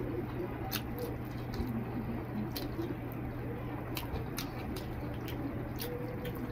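Close-up eating sounds: wet chewing and lip smacking with irregular small clicks as rice and curry are eaten by hand, over a steady low hum.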